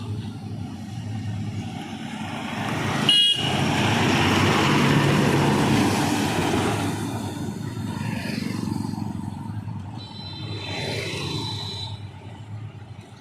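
Ashok Leyland trucks passing at speed, their engine and tyre noise swelling loudly as one goes by. A short horn blast sounds about three seconds in, and a longer high steady tone comes around ten seconds in.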